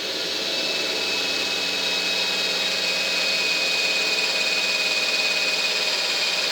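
Electric drill running steadily at constant speed with a high whine, drilling a pilot hole in 1mm aluminium sheet with a blunt bit.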